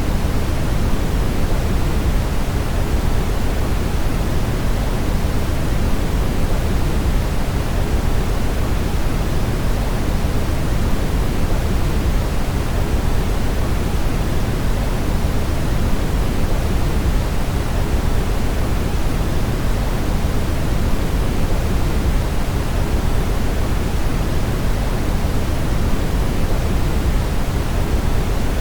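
Steady brown noise: an even, unchanging hiss, heaviest in the low end and fading toward the highs.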